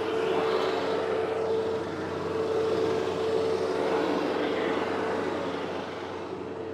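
TYM T574 tractor's diesel engine running steadily, with a constant whine held through it.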